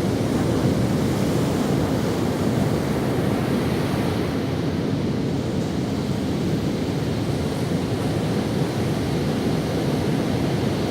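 Ocean waves washing up on a sandy beach in a steady, continuous rush, with some wind.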